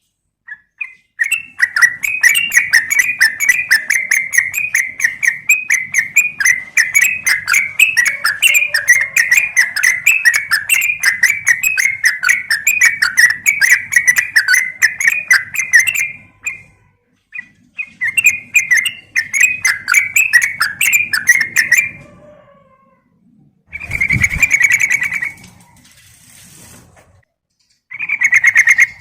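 Yellow-vented bulbul (trucukan) chattering in a long, fast string of bubbly notes. It breaks off a little past halfway, resumes for several seconds, then gives two short bursts near the end.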